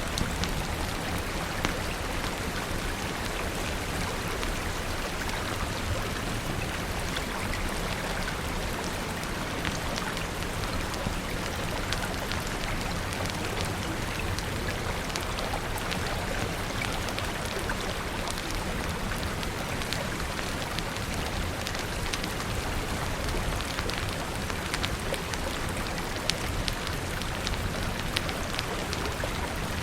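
Steady rain falling, with many small sharp crackles scattered through it from a wood fire.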